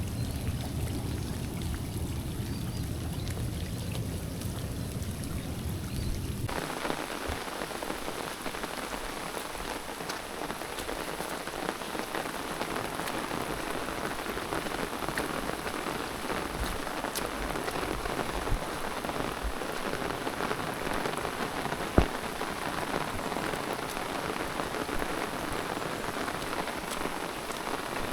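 Steady rain falling, an even hiss throughout. A low rumble underneath stops about six seconds in, leaving the rain fuller, and a single sharp click comes about three-quarters of the way through.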